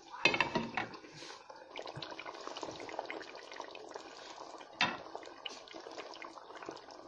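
Beef curry bubbling in a pot over medium heat, the thick sauce popping with many small crackles. There is a louder clatter just after the start and another about five seconds in.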